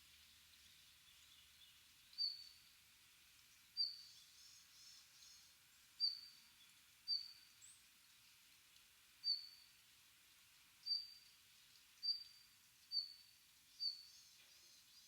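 A small bird giving short, sharp single call notes, about nine of them at uneven intervals of one to two seconds, with faint twittering from other birds behind.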